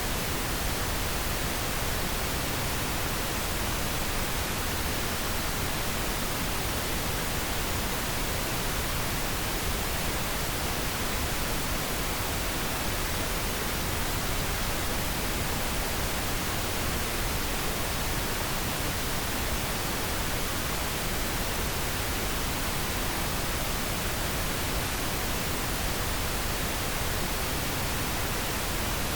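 Steady pink noise: an even hiss spread across all pitches, unchanging throughout.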